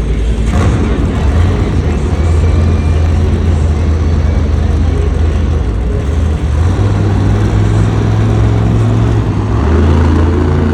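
A Monster Jam truck's engine runs loud and rises in pitch in steps, once a little past halfway and again near the end, as the driver gets on the throttle.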